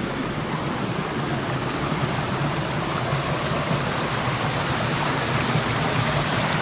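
Rushing water of a stream, a steady even noise that grows slightly louder.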